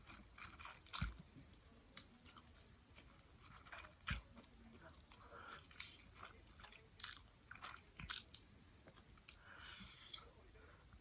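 Faint, irregular crunches and clicks of someone chewing KFC fried chicken close to the microphone.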